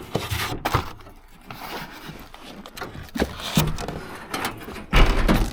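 Irregular knocks, scrapes and rubbing of hard objects being handled, with a heavy thump about five seconds in.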